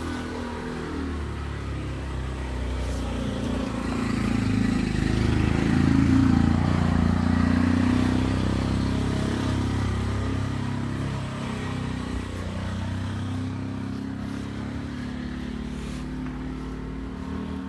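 A motor vehicle driving past, its engine growing louder to a peak about six seconds in and then fading away.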